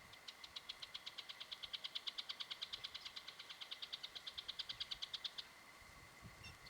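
Purple-gaped honeyeater calling a rapid, even trill of high notes, about ten a second, lasting roughly five seconds and then stopping.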